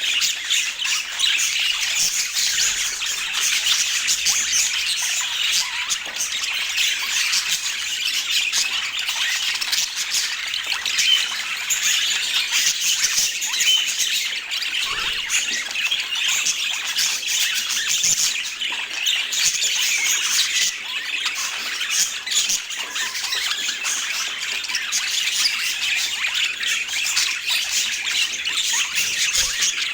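Budgerigars chattering: a dense, unbroken stream of high calls and chirps from several birds.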